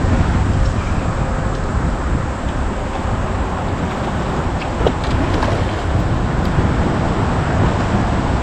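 Wind buffeting the camera microphone: a steady rushing noise with a heavy, unsteady low rumble, and a faint click about five seconds in.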